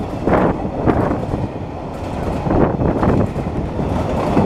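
Freight wagons loaded with logs rolling past at close range: a steady low rumble with repeated wheel clacks over the rail joints.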